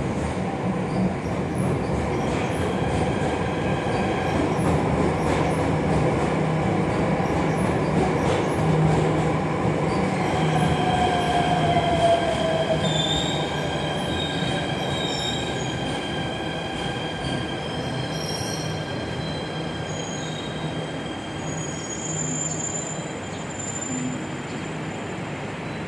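Jakarta MRT electric train running, heard from inside the car: a steady rumble with several high steady squealing tones. A whine falls in pitch about ten seconds in, and the sound then eases slightly.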